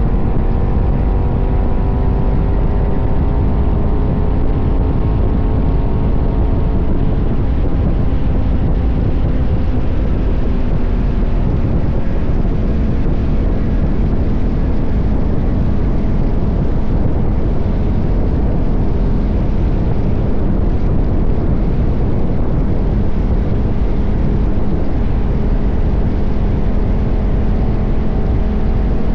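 KTM 1190 Adventure's V-twin engine running at road speed under heavy low wind rumble on the camera's microphone. The engine note eases gently lower over the first ten seconds, then sits steady under the wind.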